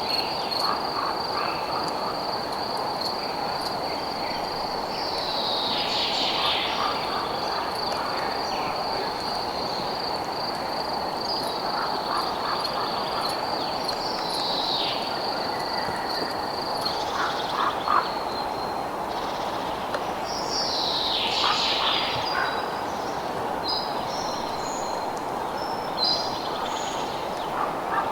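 Night nature soundscape: a cricket's high, evenly pulsed trill that stops about two-thirds of the way through, birds giving short falling calls several times, and a steady background hiss.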